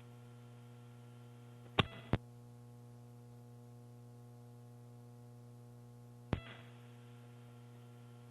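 Steady electrical mains hum on the launch-control audio feed, with two sharp clicks about two seconds in and another a little after six seconds.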